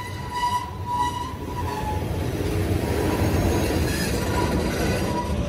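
Freight cars rolling past on the rails, a dense rumble of wheels and steel. A steady high wheel squeal rings over it at the start, fades about two seconds in and comes back near the end.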